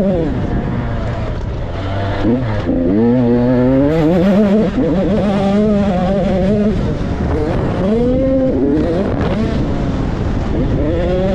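Motocross bike engine revving hard and easing off again and again, its pitch climbing, holding, then dropping as the rider works the throttle around the track.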